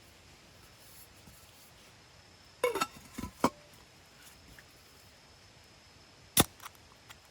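A few sharp knocks and clinks of hard objects being handled: a short cluster a little under three seconds in, two more just after, and one loud sharp clink about six and a half seconds in.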